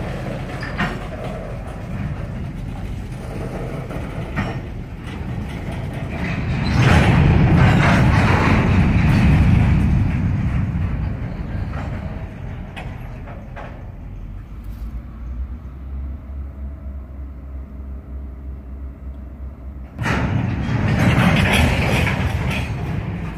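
Freight train cars rolling past on the rails, wheels rumbling and clattering. It swells louder about seven to ten seconds in, eases off, then jumps up suddenly about twenty seconds in.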